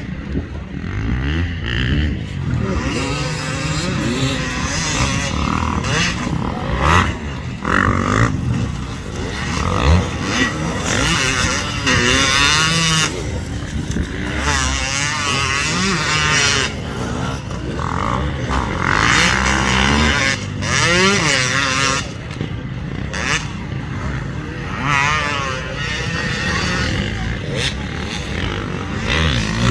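250cc two-stroke dirt bike engine (Loncin MT250) revving hard over and over, its pitch climbing and dropping with each burst of throttle.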